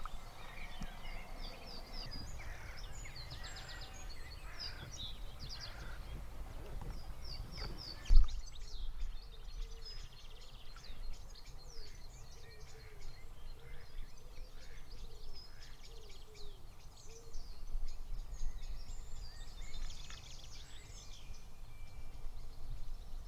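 Several small birds chirping and singing over a steady low rumble, with one sharp, loud thump about eight seconds in.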